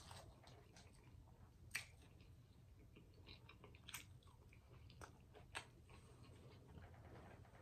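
Faint close-miked chewing and mouth sounds of someone eating, with a few sharp clicks scattered through.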